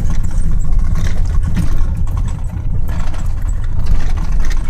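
1997 Dodge Ram 1500's 318 V8 with a straight-piped exhaust, running as the pickup is driven, heard from inside the cab: a steady low rumble with road noise.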